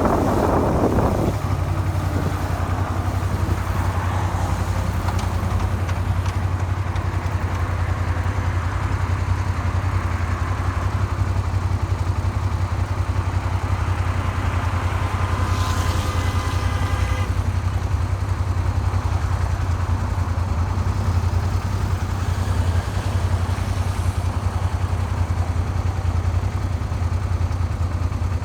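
Suzuki SV400 V-twin engine running steadily at idle after the ride slows, an engine that the owner says knocks after a makeshift crankshaft repair done with a file. About halfway through, a short tonal sound comes in over it.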